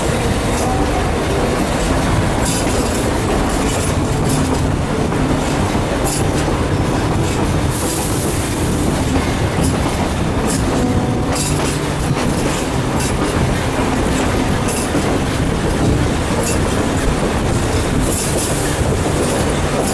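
Narrow-gauge train rolling along the track: a steady rumble of the cars, with irregular clicking of wheels over the rail joints throughout.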